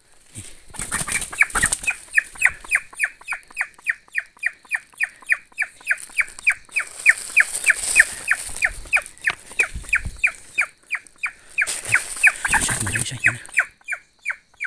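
A bird giving a long, even run of short calls that slide downward, about four a second, with loud rustling of leaf litter and brush about a second in and again near the end.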